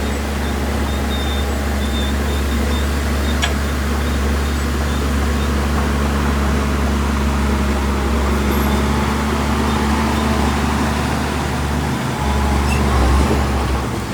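Diesel engine of heavy earthmoving machinery running steadily under load, a continuous low drone, swelling slightly near the end.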